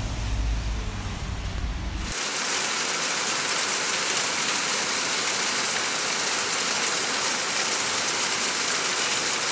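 A low rumble, then, from about two seconds in, the steady, dense hiss of heavy rain pouring down.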